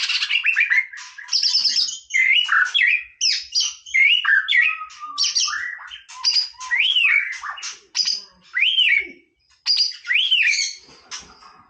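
White-rumped shama singing: a varied run of loud whistled phrases, many notes sweeping up and then down, with short breaks between phrases.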